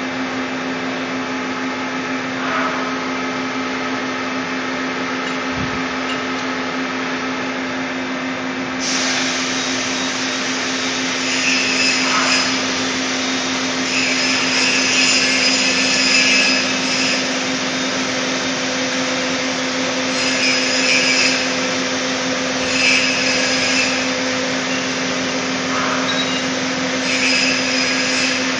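Doosan Puma 350 CNC turning lathe running with a steady mechanical hum. From about nine seconds in, short higher-pitched noisy bursts come every couple of seconds over the hum.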